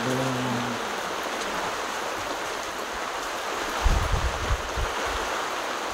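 Heavy rain falling steadily on a yard. A few dull low thumps come about four seconds in.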